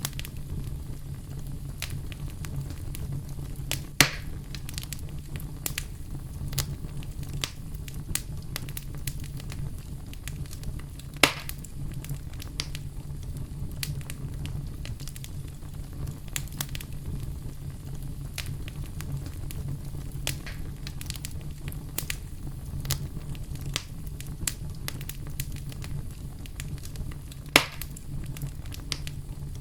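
Wood fire in a fireplace crackling: a constant scatter of small snaps over a low steady rumble, with three louder pops spread through.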